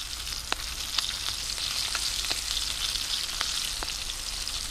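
Flour-dusted chicken wings shallow-frying in plenty of oil in a frying pan over a wood fire: a steady sizzle with scattered sharp pops. The wings are just starting to brown.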